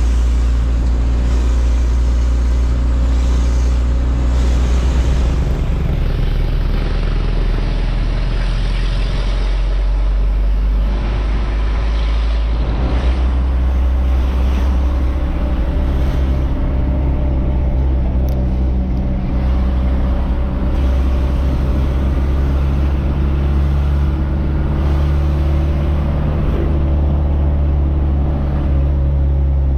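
Truck engine running with road noise while driving, a steady low drone whose engine note shifts a few times.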